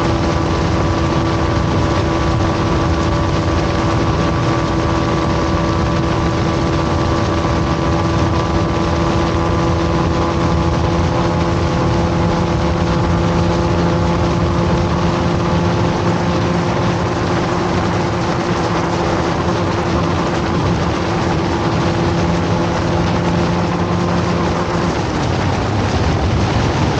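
Bajaj Pulsar RS200's single-cylinder engine held at steady high revs at speed, under heavy wind rush over the microphone. The engine note shifts near the end.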